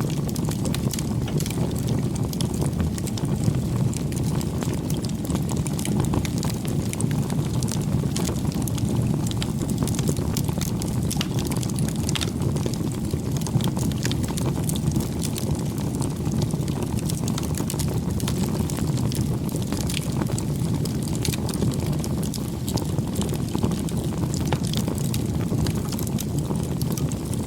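Campfire burning steadily, a low rush of flames with frequent small sharp crackles and pops from the burning wood.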